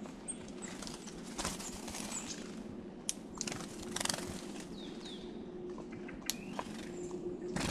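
Small songbirds calling: many short, high chirps and twitters, mixed with sharp clicks, over a steady low hum.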